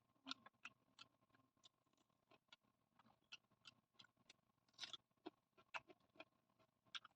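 Faint eating sounds: soft, irregular wet clicks and smacks of chewing, several a second, over a faint steady hum.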